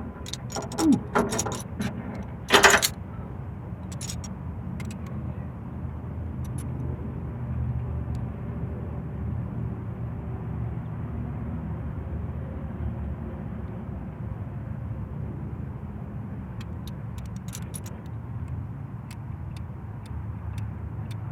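A motor vehicle's engine running with a steady low rumble, after a few sharp knocks and clatters in the first three seconds.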